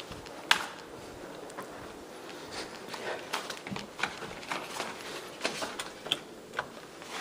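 Footsteps and light handling knocks as a person walks through a house: scattered irregular clicks and taps, a sharp one about half a second in, over faint room hiss.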